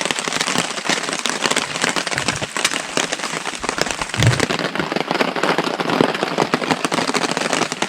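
Heavy rain pattering densely and steadily on a tarp overhead.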